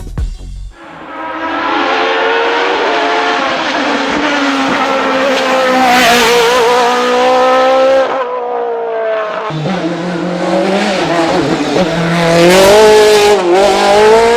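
Osella FA30 Evo hillclimb racing prototype at full throttle, its engine revving up and down through quick gear changes, with a brief lift about eight seconds in before it pulls hard again.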